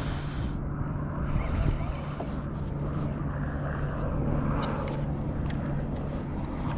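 Steady low motor hum over wind and water noise.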